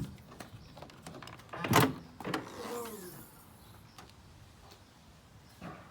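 Range Rover tailgate being released and opened: a loud clunk nearly two seconds in, followed by a falling whir with a hiss lasting about a second.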